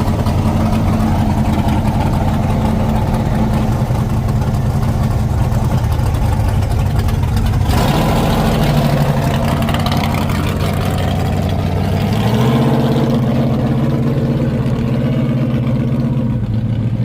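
A pulling truck's engine running loud and steady at high revs. About eight seconds in, its pitch drops with a brief surge of noise, then steps back up again about twelve seconds in.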